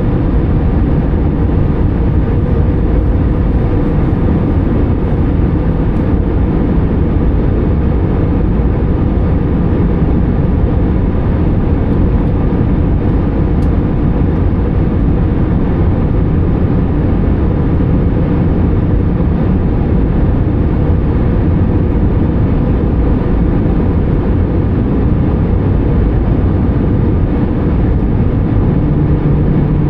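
Steady, loud cabin noise of an Airbus A320 with CFM56 engines, mostly low rumble from the engines and airflow, unchanging throughout.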